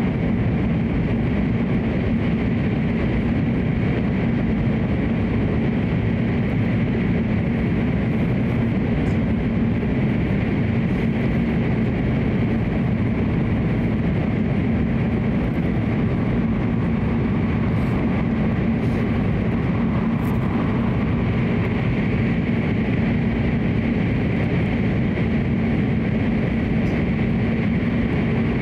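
Cabin noise of a Hokuriku Shinkansen train running between stations: a steady, even rumble and rush of wheels on rail and air along the car, heard from inside the passenger car.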